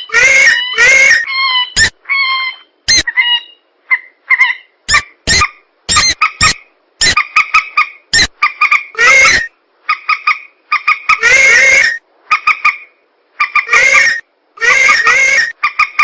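Looped lure-call recording of mandar rails and pelan swamp birds: short, harsh squealing calls and quick sharp notes repeated one after another, with abrupt silent gaps between them.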